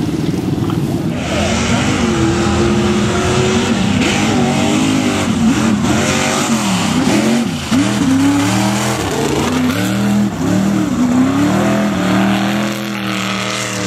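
Mega mud truck's engine revving hard, its pitch rising and falling again and again as the throttle is worked through the mud course, with a loud hiss over it from about a second in.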